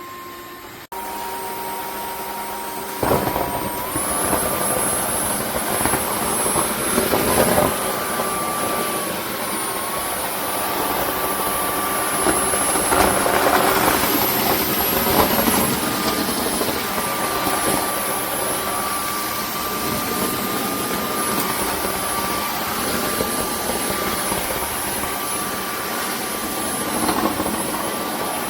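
Dreame H12S cordless wet-dry vacuum mop running, a steady motor whine with high tones that shift slightly in pitch now and then. It gets louder about three seconds in.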